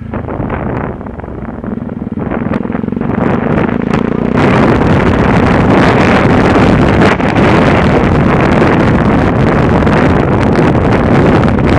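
Yamaha WR125R's single-cylinder four-stroke engine running while riding, with heavy wind rush on the microphone. About four seconds in the sound jumps much louder and stays loud.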